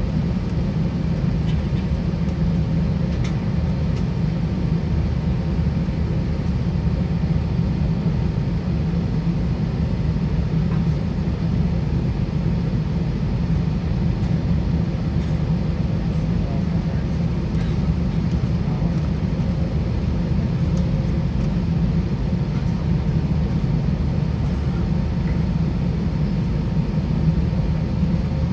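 Steady low rumble inside an Airbus A320-200 cabin while the aircraft stands on the ground, with a faint steady hum above it.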